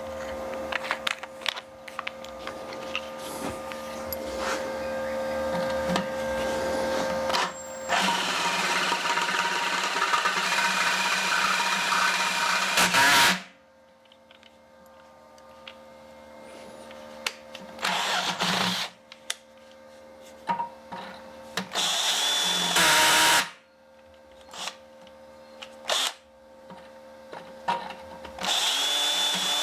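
Electric drill boring holes: a long run under load that cuts off suddenly about halfway through, then three shorter runs, the last near the end.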